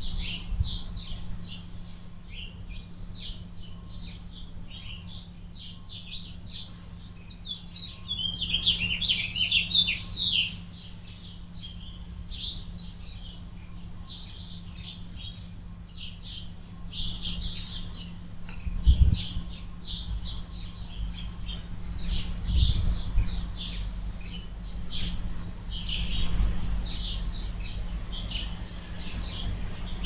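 Small birds chirping over and over in short, high notes, with a denser flurry of chirps about eight to ten seconds in. A steady low hum and occasional low rumbles run underneath.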